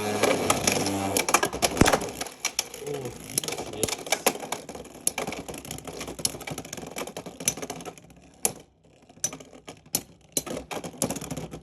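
Two Beyblade X spinning tops clashing and rattling around a plastic stadium just after launch: dense, rapid clicks and hits that thin out to occasional separate knocks after about eight seconds as the tops slow toward a spin finish.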